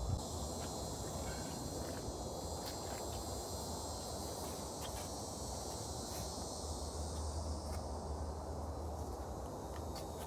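Outdoor background of insects trilling steadily, over a low hum, with a few faint scattered clicks and taps.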